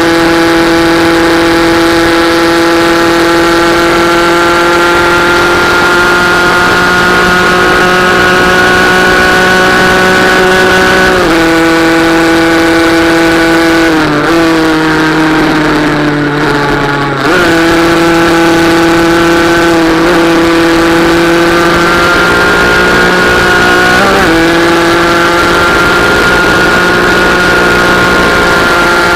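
Small racing motorcycle engine running hard at high, near-steady revs. Its pitch dips briefly and picks up again four times, like gear changes or easing off the throttle. Partway through, the revs sag for a few seconds before climbing back.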